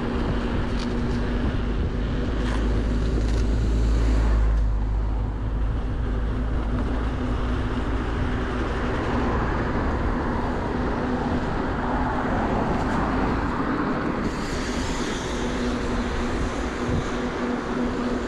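Wind rushing over the microphone and road noise while riding a bike on a road, with traffic around; the wind rumble is heaviest in the first few seconds. A steady low hum runs underneath.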